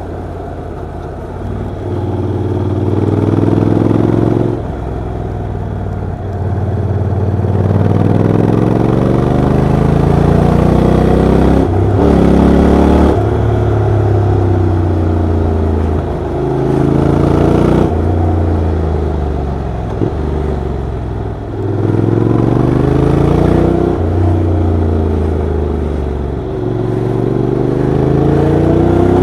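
Honda NC750XD's 745 cc parallel-twin engine and exhaust under way, its pitch climbing and then dropping sharply several times as the bike accelerates and changes gear.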